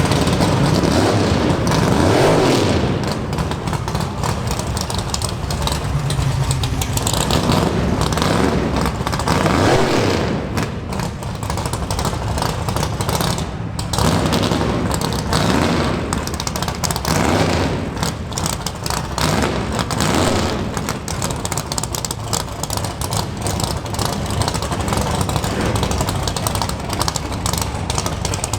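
Muscle car V8 exhausts rumbling and revving as cars drive past one after another, with several swells that rise and fall in pitch.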